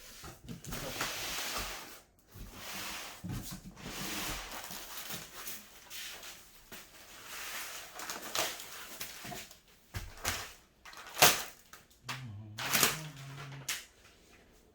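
Cat tower packaging being handled: rustling and scraping, with two sharp knocks about eleven and thirteen seconds in.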